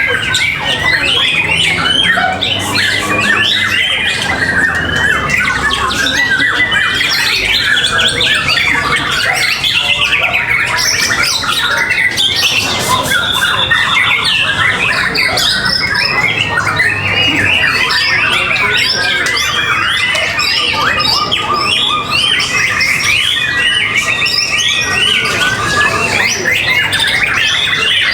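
A dense chorus of many caged songbirds calling and singing at once, with rapid overlapping chirps, trills and squawks that keep up without a break.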